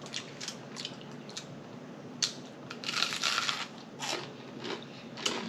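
Close-miked eating sounds: chewing, biting and wet mouth clicks, with a denser crunchy burst about three seconds in.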